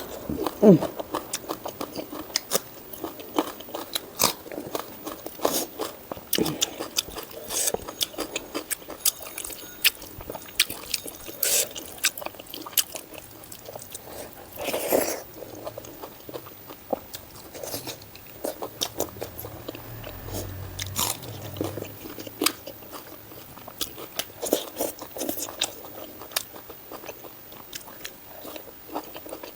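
Close-miked eating: a person chewing and biting into pork with mustard greens and rice, making many short crunches and wet mouth clicks at an irregular pace.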